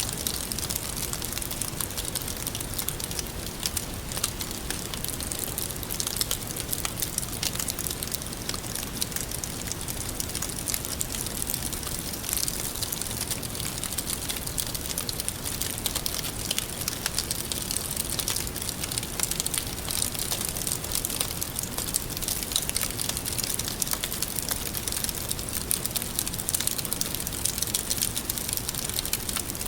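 Wood campfire burning steadily, with a dense run of small crackles and pops over a soft hiss.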